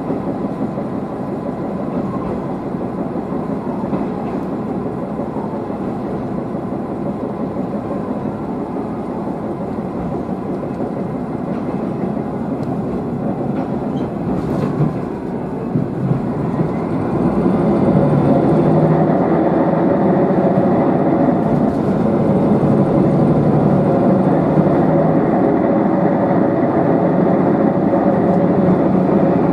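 Diesel railcar running along the line, heard from inside: engine and wheels on the rails. About halfway through it grows louder as a steady engine note comes up.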